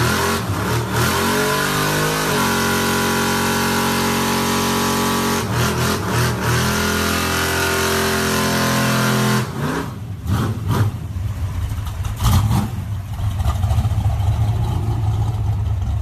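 Truck engine revving: the pitch climbs over the first two seconds and holds high and steady for about seven seconds. It then drops back to a low, uneven rumble at idle, with a few sharp pops or knocks as it comes down.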